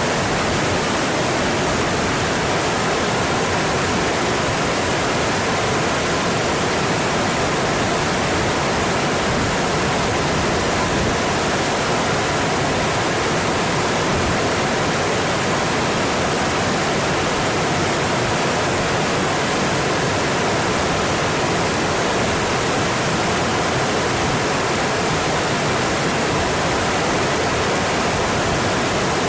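Mountain stream flowing over rocks: a loud, steady rush of water with no breaks.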